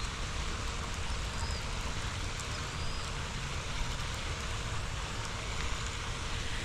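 Wind buffeting the microphone in a steady low rumble and hiss, with a few faint, short, high bird chirps about every second and a half.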